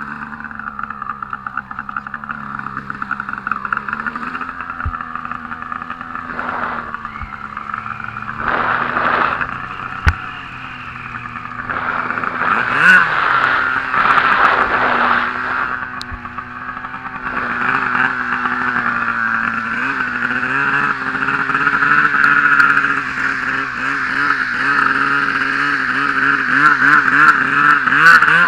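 Turbocharged Arctic Cat M1000 two-stroke snowmobile engine running under varying throttle, with several short surges in the first half. From about halfway through it runs louder, and its pitch wavers as the throttle is worked.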